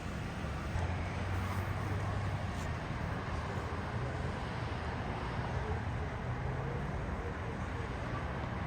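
Steady traffic noise with vehicle engines running, a low hum that shifts slightly in pitch.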